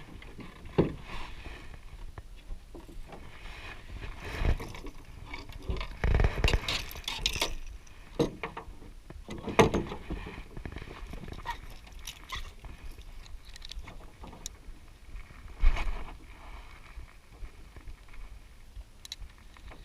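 Irregular knocks and thumps of gear being handled aboard a small fishing boat, over rough rushing noise; the loudest knocks come about six to ten seconds in and again near sixteen seconds.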